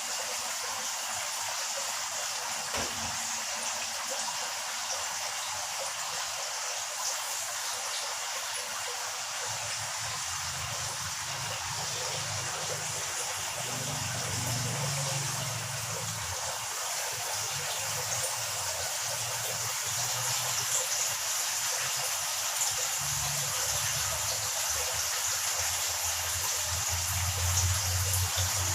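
A steady, even hiss, with a low rumble that comes and goes from about ten seconds in and is strongest near the end.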